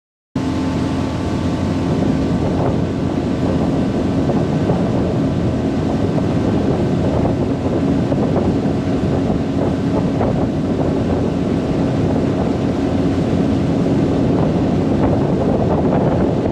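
Tohatsu 20 hp outboard motor running steadily at speed, pushing a 16-foot aluminum boat fast enough to plane, with a steady engine tone under the rush of water and wind buffeting the microphone.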